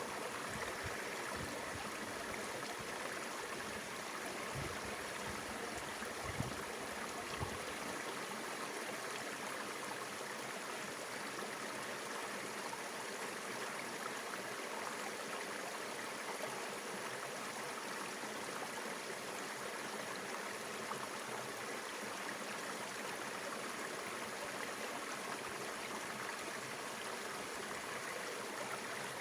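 Mountain river water flowing steadily over rocks, a continuous rushing and gurgling, with two brief low knocks about six and seven seconds in.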